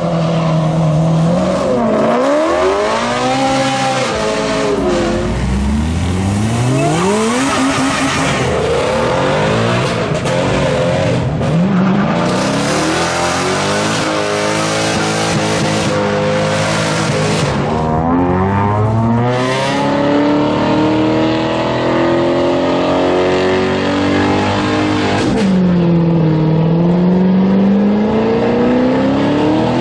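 Car engines revving and accelerating hard, the pitch sweeping up and falling back many times over a steady loud rush of noise.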